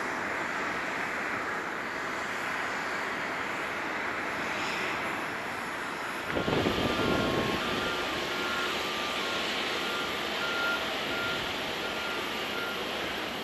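Jet engine noise from an Airbus A350-900 climbing away after takeoff. About six seconds in it gives way suddenly to a louder low rumble of airport ground equipment, with faint short beeps repeating over it.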